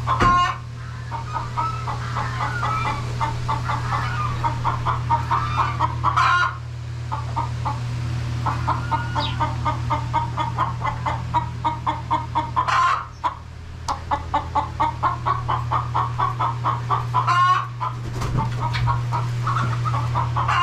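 Hen cackling: runs of rapid clucks at several a second, each run ending in a louder, drawn-out call about every five to six seconds.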